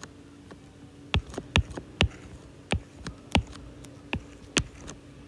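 Single computer-keyboard keystrokes at a slow, uneven pace, about ten sharp clicks, as a ten-digit binary code is typed in. A faint steady hum lies underneath.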